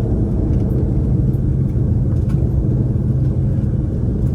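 Steady low rumble in the cabin of an Airbus A330-243 taxiing, its Rolls-Royce Trent 772B engines at low taxi power and the airliner rolling along the taxiway.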